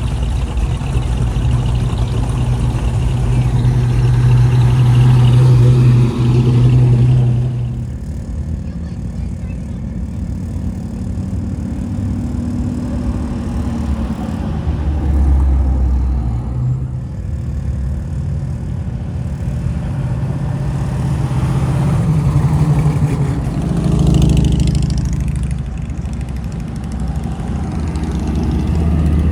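Classic cars driving past one after another, their engines swelling and fading as each goes by. The loudest pass comes about five seconds in, with others around fifteen seconds and near twenty-four seconds.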